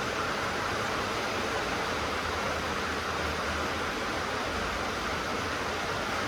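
Steady rain drumming on a corrugated tin roof, an even hiss with no breaks.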